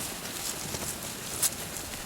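A flock of sheep moving about, their hooves shuffling, with scattered clicks and one sharper click about a second and a half in.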